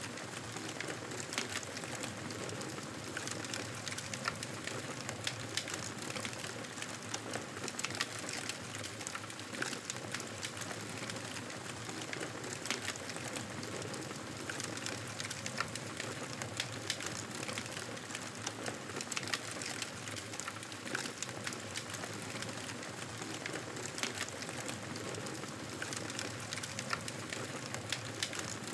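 Campfire burning: a steady hiss with irregular crackles and pops of burning wood.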